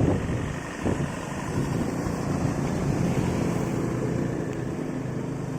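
Vehicle engine running with a steady low hum and road noise while driving.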